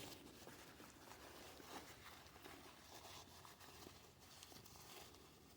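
Faint scraping and rubbing with a scatter of light scratches: a hand tool working old, softened paint off a ride-on train's pedal handle.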